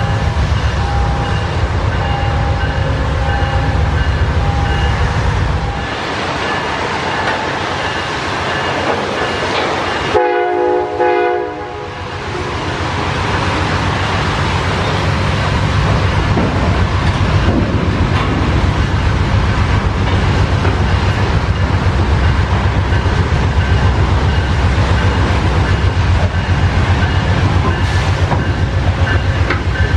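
Amtrak GE P42DC diesel locomotive approaching at the head of a passenger train. About ten seconds in it sounds one horn blast of several notes together, lasting under two seconds. After that the diesel rumble grows steadily louder as it nears, and a bell rings in the first few seconds and again near the end.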